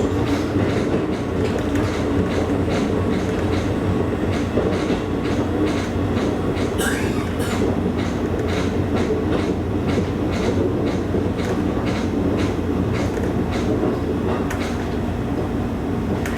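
Electric train running between stations: a steady low rumble from the wheels and running gear, with repeated clicks from the wheels passing over rail joints.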